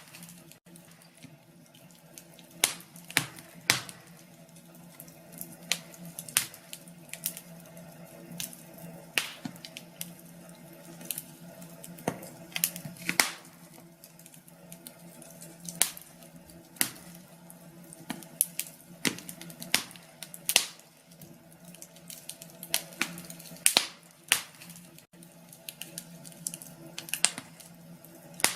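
Wood fire in a fireplace crackling, with irregular sharp pops and snaps, a few of them much louder than the rest.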